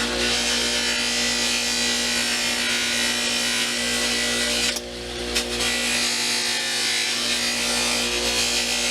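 Power buffing wheel running steadily while buffing a small pry bar, with a brief drop in the sound about five seconds in.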